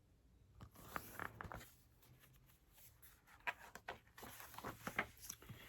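Faint rustling and soft clicks of a paper picture book being handled and a page turned, in two short clusters, about a second in and again near the end.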